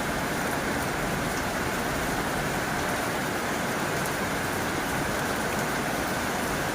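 Heavy rain falling steadily on a tin roof, a dense even patter with a few sharper drop ticks.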